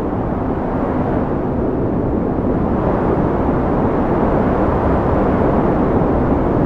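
Strong wind blowing as a steady deep rush, slowly growing louder.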